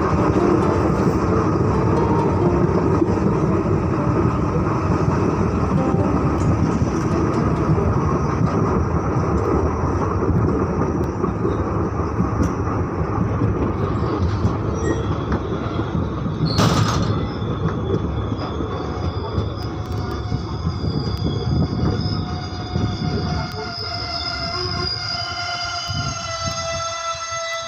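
Passenger train running on the rails, heard from an open coach doorway, with one sharp bang about two-thirds of the way through. The running noise eases as the train slows alongside a station platform, and in the last few seconds the brakes squeal in thin, high, steady tones.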